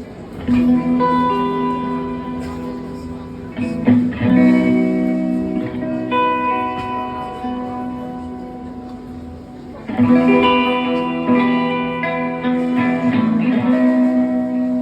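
Guitar introduction to a song played live: chords struck about half a second in, again near four seconds and about ten seconds in, each left ringing and slowly fading.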